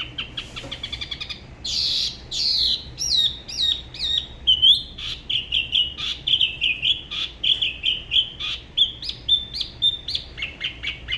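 Spot-throated babbler singing: a fast run of short high notes, a few louder sweeping whistles about two seconds in, then quick, varied chattering phrases.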